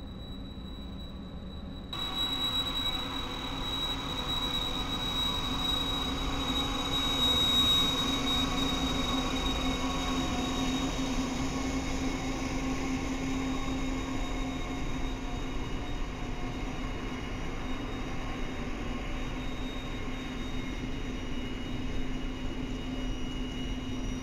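Double-stack freight train with diesel locomotives passing on the curve. It comes in suddenly about two seconds in, then runs steadily, with a low engine drone and a thin, high, steady squeal from the wheels on the tight curve. It is loudest a few seconds later.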